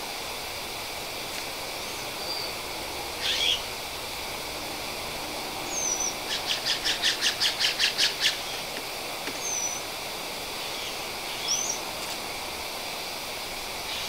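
Wild birds calling at a feeder: scattered short chirps and whistles, and near the middle a rapid run of about a dozen sharp notes, some five a second, lasting about two seconds.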